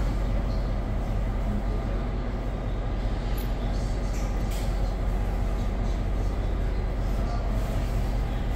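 Diesel-hauled commuter train moving off slowly, heard from inside the coach: a steady low rumble of the running train, with a few sharp clicks near the middle.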